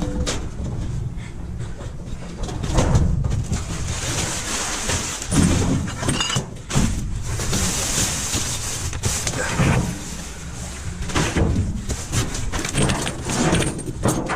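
Rummaging through the trash in a dumpster: rustling of bags and debris, broken by repeated knocks and clatters as things are shifted.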